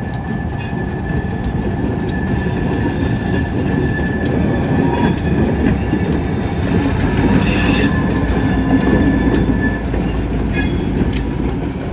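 Freight cars rolling slowly past on the rails: a steady heavy rumble, broken by scattered sharp clicks of wheels over rail joints. A thin, steady high wheel squeal runs under it and stops near the end.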